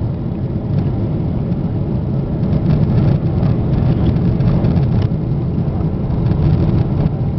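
Steady low rumble of a Boeing 777's cabin on approach: engine and airflow noise heard from inside the passenger cabin.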